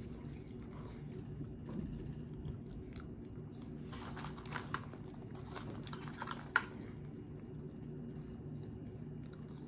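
A person chewing and biting food close to the microphone, with soft wet mouth clicks and crunches bunched in the middle, over a steady low hum.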